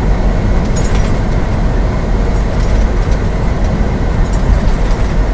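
Steady road and engine noise inside a semi truck's cab while driving on the highway, heaviest in the low end.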